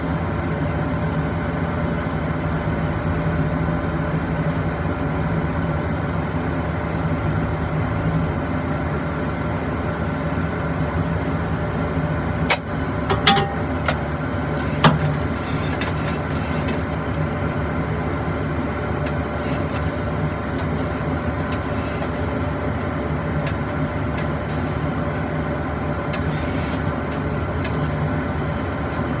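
Engine running steadily with a constant, even drone, typical of an aircraft pushback tug. A few sharp clicks and knocks come about halfway through.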